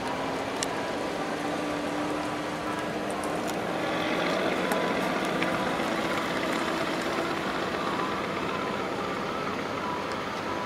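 Double-stack intermodal freight train rolling past: a steady rumble of steel wheels on rail, with a faint drawn-out tone through the first half and a few light clicks.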